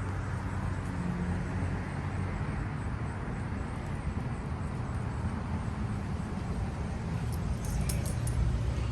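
An engine idling with a steady low rumble, with a few small clicks near the end.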